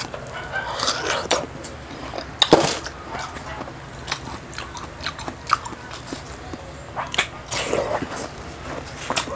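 Close-miked eating: chewing and biting of food, with irregular short mouth clicks throughout, the loudest about two and a half seconds in.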